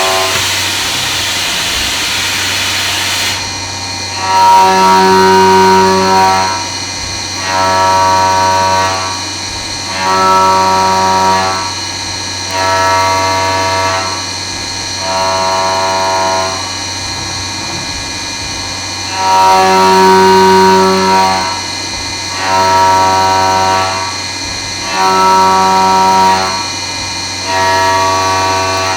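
CNC milling machine cutting 6061 billet aluminum. The end mill sings with a steady pitched hum on each cutting pass, on for a second or two and off again about every two and a half seconds, over a steady high spindle whine. A hissing rush fills the first three seconds.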